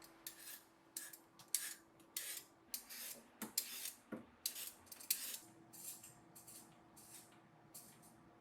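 A spoon scraping and scooping on a plate of omelet rice in short, irregular strokes, about two a second, fading toward the end.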